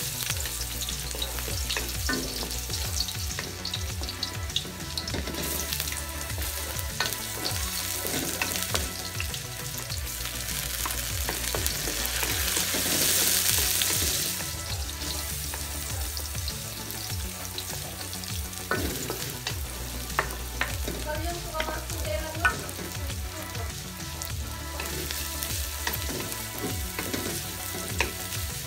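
Garlic and onions sizzling in oil in an aluminium wok, stirred with a wooden spatula that scrapes and taps against the pan. The sizzling swells for a couple of seconds about halfway through.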